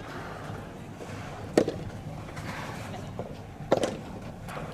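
Soft tennis rubber ball struck back and forth by rackets in a volley rally: sharp hits about two seconds apart over steady hall background noise.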